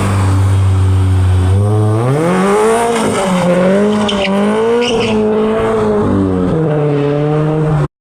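Car engine revving hard with its tyres spinning and squealing in a burnout. The engine holds a steady note for about a second and a half, then climbs and wavers at high revs, and cuts off suddenly near the end.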